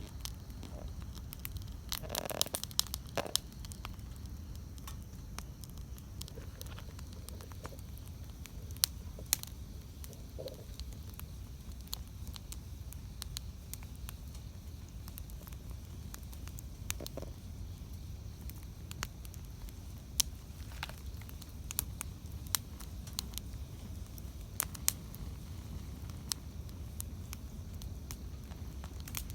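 Wood campfire burning, a steady low rumble of flame with irregular crackles and sharp pops from the burning wood; a brief flurry of louder pops comes about two to three seconds in.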